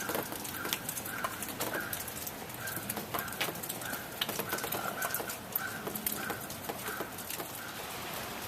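A bird repeating one short, flat note over and over, about three calls every two seconds, with scattered sharp ticks alongside.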